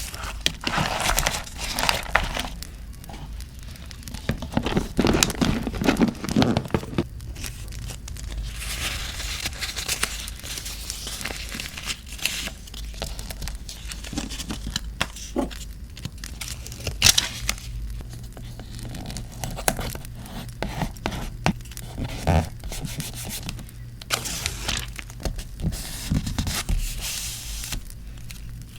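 Paper being torn, crinkled and handled close to the microphone, with scattered small taps and scrapes.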